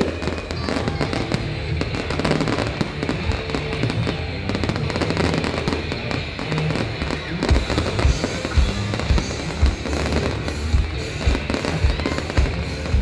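Aerial fireworks display: a continuous barrage of shell bursts and crackling, with heavier booms from about halfway through. Music plays loudly underneath.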